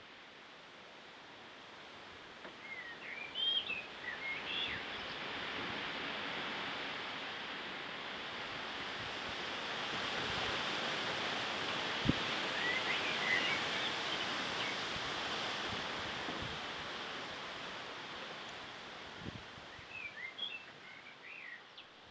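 Strong wind rushing through the garden, swelling to its strongest around the middle and easing near the end. Small birds sing short chirping phrases over it three times: a few seconds in, in the middle, and near the end, with a single sharp click in the middle.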